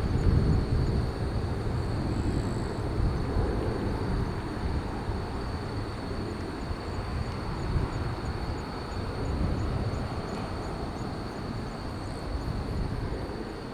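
Low rumble of a Boeing 767-300ER's jet engines at takeoff power, gradually fading as the airliner climbs away.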